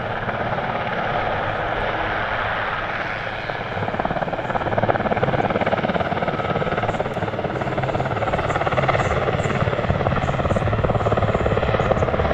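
Super Puma helicopter's rotor chopping and twin turbines running as it flies backwards in a backward turn, getting louder about four seconds in.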